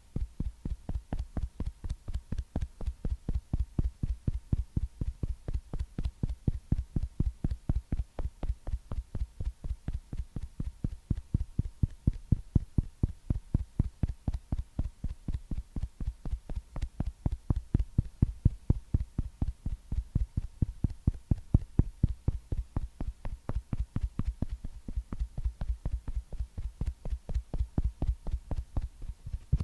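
Cosmetic puff patting against the microphone in a quick, even rhythm of soft, muffled thuds, about four a second, growing a little louder now and then.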